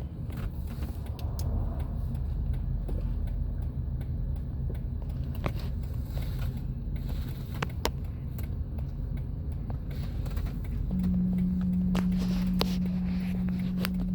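Low, steady engine rumble heard from inside a car, with scattered small clicks. About eleven seconds in, a steady low hum starts suddenly and holds.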